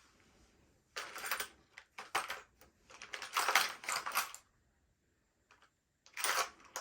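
Small metal hand tools, such as Allen wrenches, clicking and rattling against each other as they are rummaged through in a search for a tiny wrench. The sound comes in four short bursts of clatter with quiet gaps between them.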